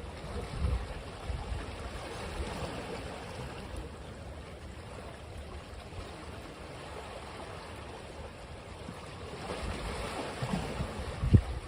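Ocean waves washing onto a beach, a steady wash that eases and builds again near the end. Wind gusts buffet the microphone near the end.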